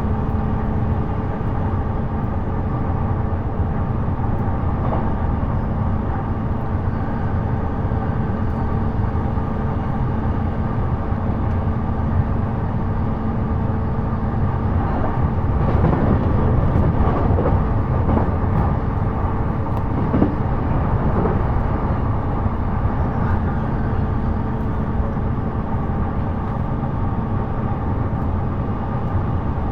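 Running noise of a JR East E233-series electric commuter train heard from inside the car: a steady rumble of wheels on rails with a low motor hum. The hum drops out about halfway through, and a few seconds of louder, rougher rolling noise follow.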